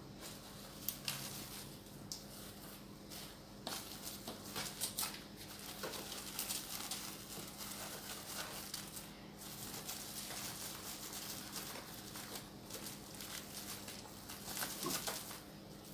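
Plastic wrap crackling and rustling in irregular bursts, with small clicks, as it is stretched and pressed over a cardboard box.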